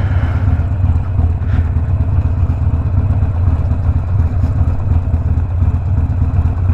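Harley-Davidson Sportster Iron 1200's air-cooled 1200cc V-twin, breathing through a Two Brothers 2-into-1 exhaust, running steadily at low revs with no revving.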